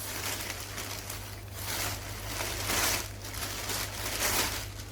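Rustling and crinkling of grocery packaging being handled, in several swells, over a steady low electrical hum.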